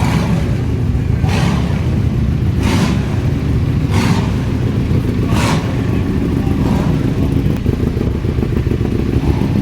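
Motorcycle engine running with a loud, steady low rumble, with a soft swish about every second and a half.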